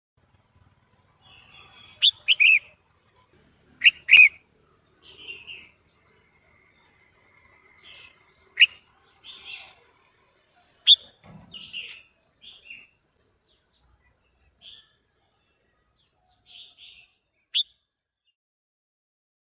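Female red-whiskered bulbul calling: a handful of loud, sharp down-slurred notes at irregular intervals, with softer chirps and chatter between them.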